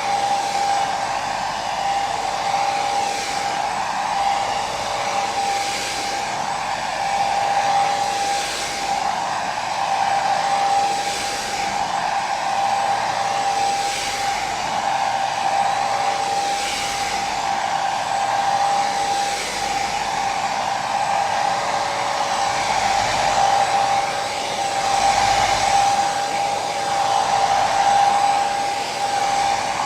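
Hair dryer running continuously, a steady rushing blow with a strong motor whine and slow gentle swells in the airflow.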